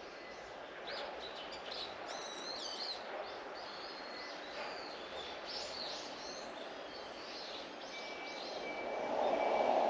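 Several small birds chirping and calling, with quick gliding notes overlapping one another, over a steady outdoor rush. Near the end the rush swells, like distant traffic passing, and a faint high beep begins to repeat about twice a second.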